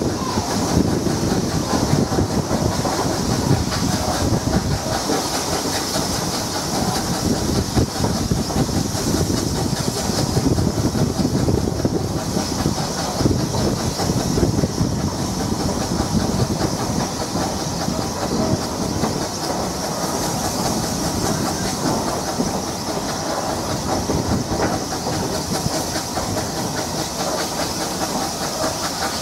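Narrow-gauge steam-hauled train running steadily, heard from aboard: carriage wheels rumbling and clattering over the rail joints, with a hiss running through it.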